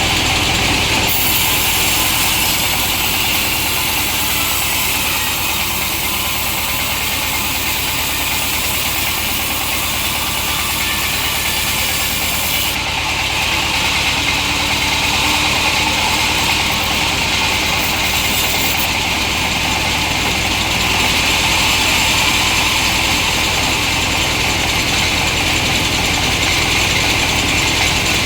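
Chainsaw running steadily under load while ripping a log of very hard wood lengthwise.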